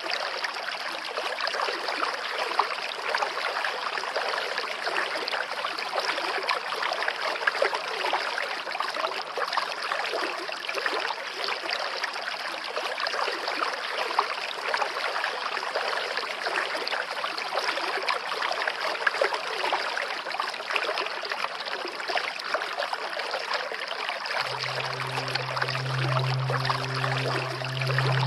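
River water running steadily. Near the end a low sustained music drone comes in underneath.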